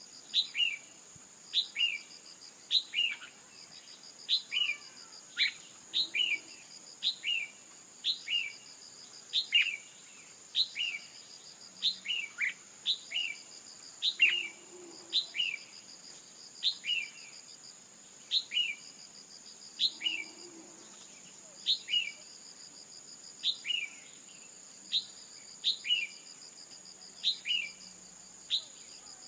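Female red-whiskered bulbul calls, a short two-note call dropping in pitch, repeated about once a second, of the kind played to stir a male into full song. Behind it runs a steady high-pitched drone with an on-off insect-like trill.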